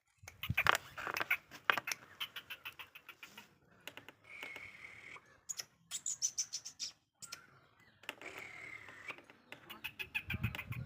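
Black francolin calling: runs of rapid, harsh, clicking notes, with two longer held notes about four and eight seconds in.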